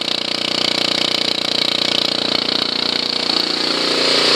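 Honda CT110's single-cylinder four-stroke engine running steadily at idle, warming up just after a cold start. It grows a little louder near the end.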